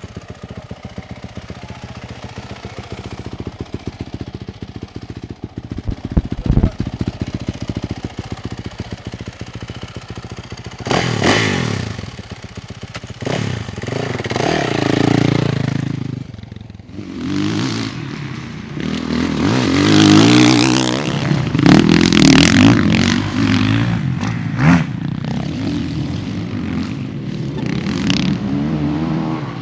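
Motocross bike engines running: an engine ticks over steadily at first, then from about 11 seconds in, bikes are revved hard, the pitch rising and falling as the throttle opens and closes.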